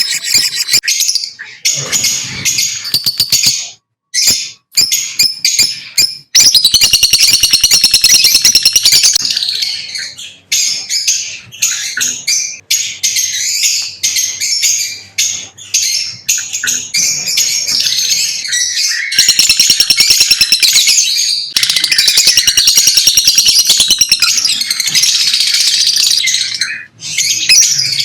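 Lovebirds chirping in a fast, dense, high-pitched chatter, with brief pauses about four and six seconds in.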